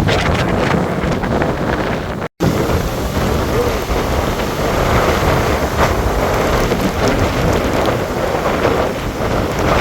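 Hurricane wind and rain buffeting the microphone: a loud, steady rushing noise with a split-second dropout about two seconds in.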